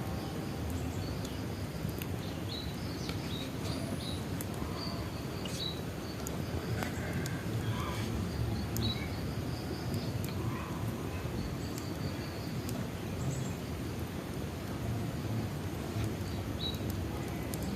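Bonfire crackling, with scattered sharp pops over a steady low rumble of the flames. Birds chirp in short high calls throughout.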